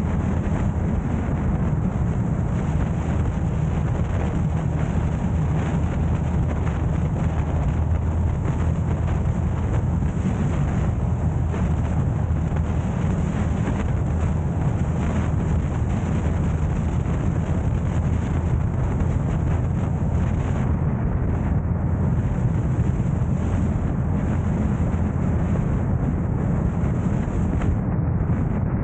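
Steady low rumble of a car on the move: road and wind noise on the camera's microphone, with no clear changes.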